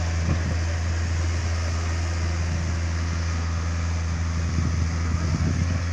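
Takeuchi TB150 mini excavator's diesel engine running at a steady speed, with a few faint knocks near the end.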